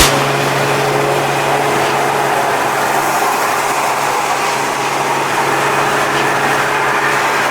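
Audi B5's 2.8-litre 30-valve V6 running with its stock exhaust, a steady low drone with no revving.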